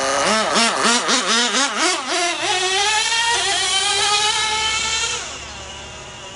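GO 0.98cc nitro engine of a 1/16-scale RC buggy revving in quick throttle blips, about three a second, then held on throttle with its pitch climbing steadily. About five seconds in the sound falls away quickly and stays much quieter.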